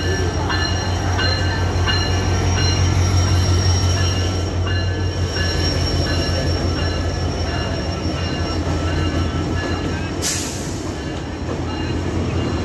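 Diesel-hauled passenger train rolling slowly into a station: the locomotive's diesel engine drones low and steady while the coaches pass, with high, steady squealing from the wheels that breaks off and starts again. A short hiss comes about ten seconds in.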